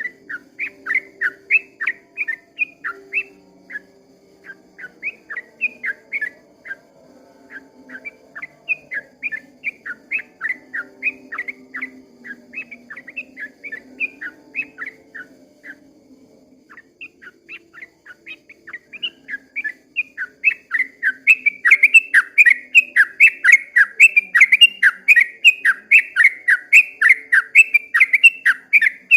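Yellow-vented bulbul (trucukan) singing a long, rapid run of chattering notes, with a short break partway through, then louder and denser in the last third.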